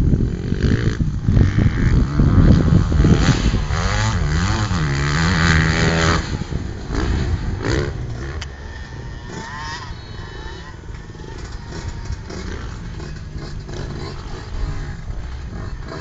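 KTM 250 SX-F single-cylinder four-stroke motocross bike engine revving hard, its pitch rising and falling with the throttle and gear changes. It is loud for the first six seconds or so, then quieter and lower for the rest.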